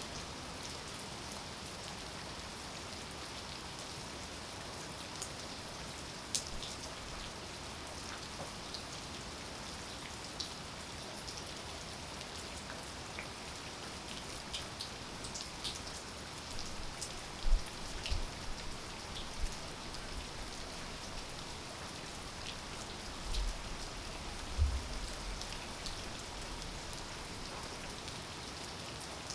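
Steady rainfall, an even hiss with individual drops ticking sharply here and there. A few dull low thuds come in the second half, the loudest just past halfway.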